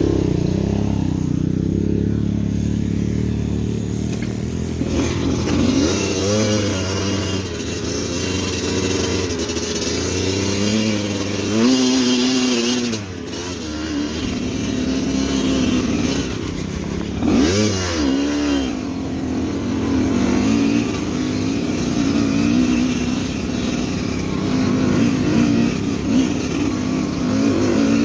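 Motorcycle engine revving up and down repeatedly under load on a rough trail, the revs dropping briefly about halfway through, over a steady hiss.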